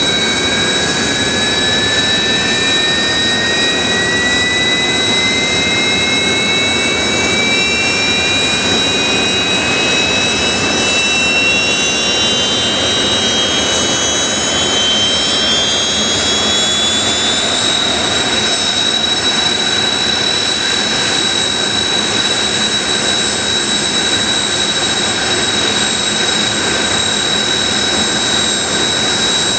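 Kawasaki T-4 jet engines during start-up. One engine's whine climbs steadily in pitch for about twenty seconds as it spools up, then settles into a steady idle, while an engine already at idle gives a constant high whine over a loud rush.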